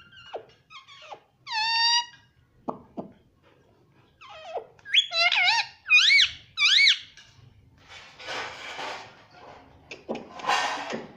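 Rose-ringed (Indian ringneck) parakeet giving a series of shrill squawks whose pitch swoops up and down, with a quick run of calls in the middle, followed by two harsher, raspy calls near the end.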